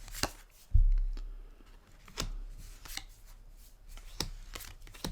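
Magic: The Gathering cards being handled and set down on a table: a few sharp snaps spaced about half a second to a second apart, with a heavier thump on the table about a second in.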